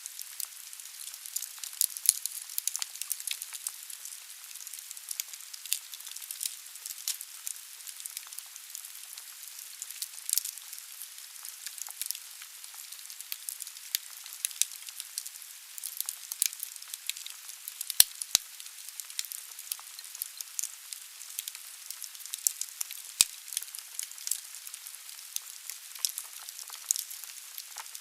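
Wood fire burning in a fireplace: a steady soft hiss with frequent sharp crackles and pops from the burning logs, at irregular times.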